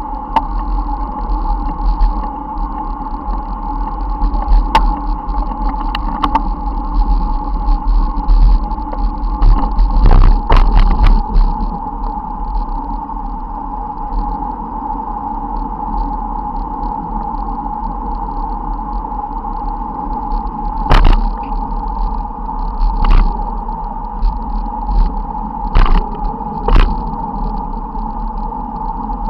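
Steady rumble of a bicycle being ridden on the road, with short clicks and knocks scattered through it, several of them close together about ten seconds in.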